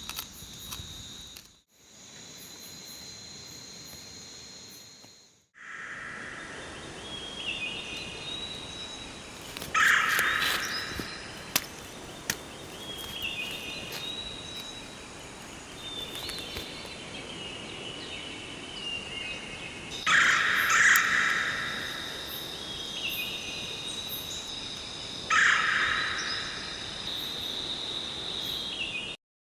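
Forest ambience: a steady high insect drone with birds calling in repeated falling phrases, and louder bursts of calls about ten, twenty and twenty-five seconds in.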